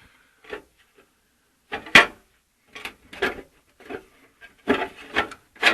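Sheet-steel engine tinware and hand tools clanking and clicking in separate sharp knocks as the oil cooler cover on an air-cooled VW engine is worked loose. The loudest knocks come about two seconds in and at the end, the last one leaving a short metallic ring.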